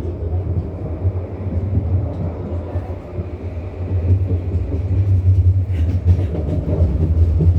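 Bombardier NGTD12DD low-floor tram running along its track: a steady low rumble of wheels and drive that grows louder about halfway through.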